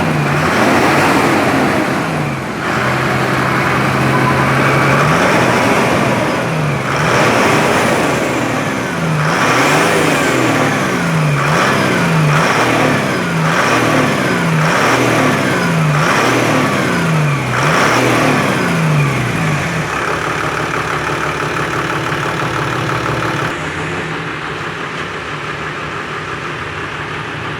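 Toyota 1HD-T 4.2-litre straight-six turbo-diesel in a Land Cruiser HDJ80 being free-revved while the engine is being set up. The revs are held up briefly, then blipped up and back down again and again about once a second, then settle to a steady idle for the last several seconds.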